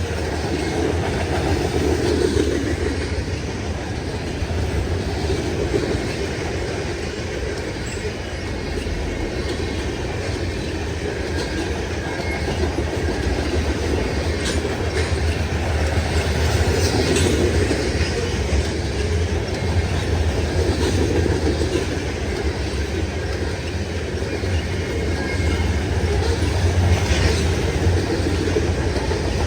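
Freight train cars rolling past at speed, a steady rumble and rattle with wheels clicking over rail joints.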